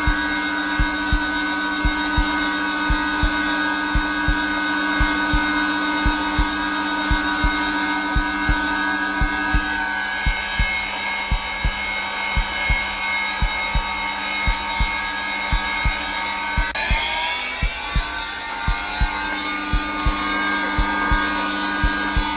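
Zelmer vacuum cleaner running steadily on its lowest setting, with a heartbeat's low thumps beating regularly over it. About three-quarters of the way through, the motor's pitch briefly drops and climbs back.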